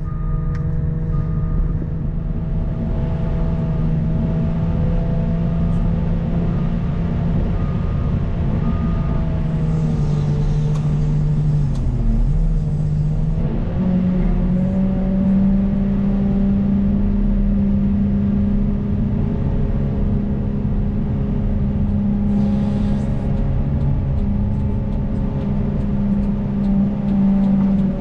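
Caterpillar 926M wheel loader's diesel engine working steadily. Its pitch dips briefly and then picks up to a higher, steady speed about halfway through. A backup alarm beeps briefly near the start.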